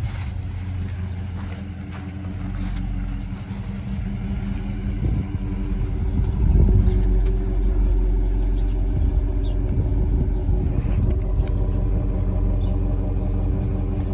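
2014 Dodge Charger R/T's 5.7 L HEMI V8 running through Carven R mufflers with the resonators deleted: a steady low exhaust note at an even engine speed, a little louder from about six seconds in.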